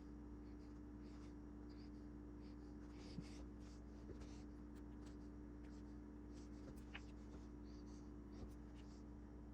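Faint, scattered scratching and rustling, like small parts or paper being handled, over a steady low electrical hum.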